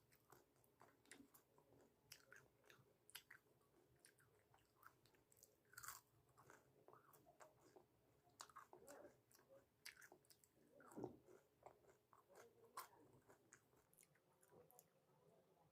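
Quiet close-up chewing of food, with irregular small crunches and wet mouth clicks.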